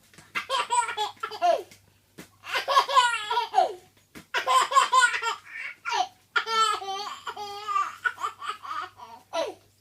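Toddler laughing hysterically in repeated bouts of high-pitched belly laughter, with short breaks for breath.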